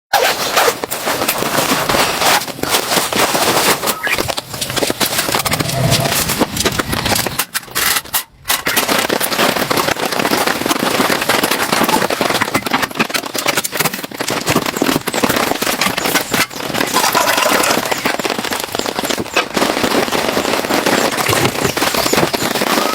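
Heavy rain pattering hard and close on a tent or roof: a dense, loud crackle of drops, with a brief break about eight seconds in.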